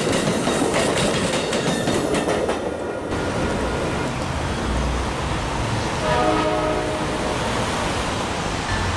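Passenger train rolling past, wheels clicking over the rail joints for about three seconds before the sound drops to a low rumble. About six seconds in, a short train-horn blast sounds.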